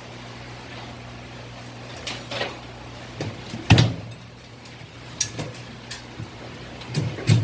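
Several sharp knocks and clatters, the loudest about halfway through and another near the end, over a steady low hum.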